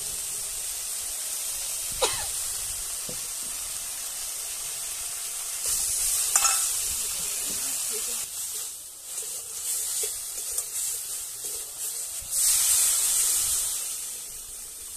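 Spice masala sizzling in hot oil in a metal karai while a metal spatula stirs and scrapes against the pan. Near the end, water is poured into the hot oil, setting off a loud surge of hissing that dies down.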